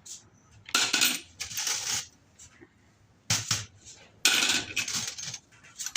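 Spent brass cartridge cases clattering and clinking together in three bursts, the longest over a second, with scattered clicks between.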